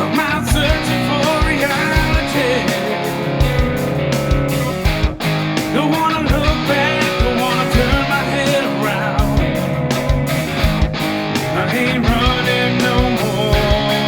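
Rock band playing an instrumental passage: electric guitars, bass guitar and drums with a steady beat, and a lead guitar line that bends and wavers in pitch over the top.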